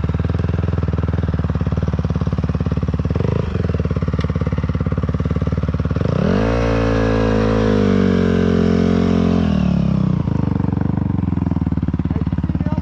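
Dirt bike engine idling steadily, while another dirt bike rides past about six seconds in, its engine note rising, holding for a few seconds, then dropping away.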